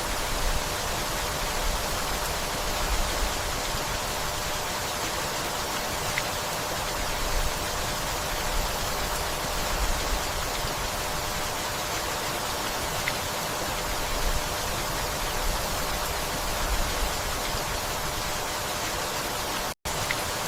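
Steady rainfall, an even hiss with no let-up, broken by a split-second gap of silence near the end.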